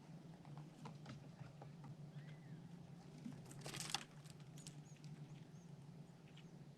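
Faint, scattered ticks and scratches of a small animal at a feeder, with a short rustling burst about four seconds in, over a low steady hum.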